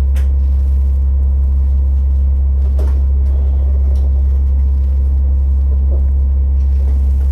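Inside the cabin of a JR KiHa 47 diesel railcar: a steady, loud low drone from the running train, muffled as if heard from a pocket. A few faint clicks come through about a third of the way in and about halfway.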